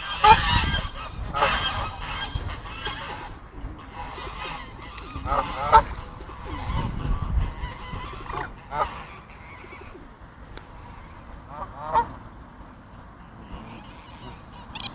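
Geese honking in short, repeated calls, most busily in the first few seconds and more sparsely later. There is a low rumble about halfway through.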